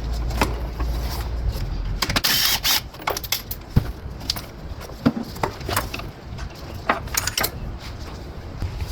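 Hand tools and engine-bay parts being worked on while the air cleaner housing is removed: scattered clicks, clinks and knocks, with a short rustling burst a little after two seconds. A low rumble runs underneath for the first two seconds.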